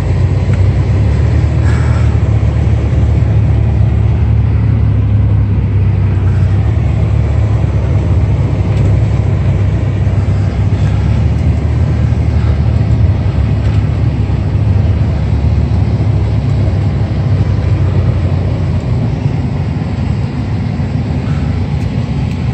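Truck engine and road noise while driving: a steady, loud low drone.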